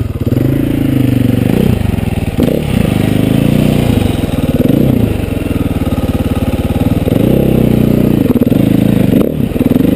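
Dirt bike engine revving up and down again and again, its pitch rising and falling several times, as the bike is worked through a rut at a flooded crossing.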